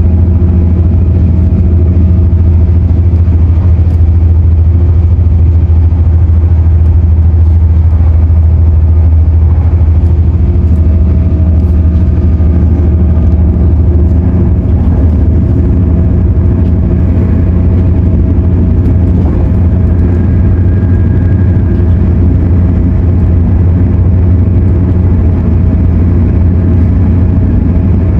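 Inside the cabin of an MTR Airport Express CAF-built train running between stations: a loud, steady low rumble from the running gear and traction, with a constant hum. A faint steady whine joins about eleven seconds in.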